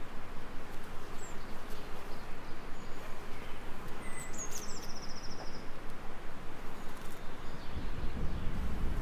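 Steady hiss of gentle rain with a few short bird calls, including a quick falling trill about four seconds in. Near the end a low thunder rumble begins to build.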